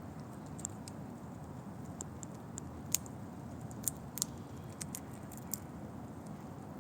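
Squirrel gnawing and cracking Siberian pine nut shells: irregular sharp little clicks, the loudest about three and four seconds in, over a steady low background rumble.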